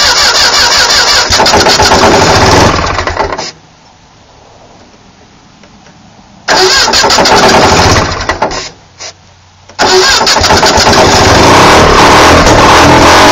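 Small car engine running roughly, dying about three seconds in, restarted around six seconds only to die again, then catching near ten seconds and running on. It won't idle on its own and stalls for lack of fuel, kept going only by squirts of fuel into the carburetor, which the owner thinks needs going through.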